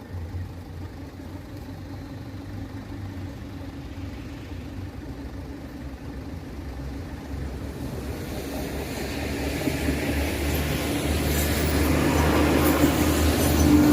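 A diesel railcar train approaches, its engines giving a steady low hum that grows louder throughout. Wheel and rail noise rises from about halfway through.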